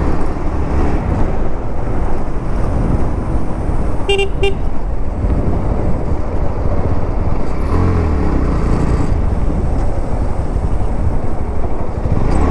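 Motorcycle riding noise: steady engine, wind and road noise, with a horn beeping twice briefly about four seconds in. A deeper engine note swells up around eight seconds in.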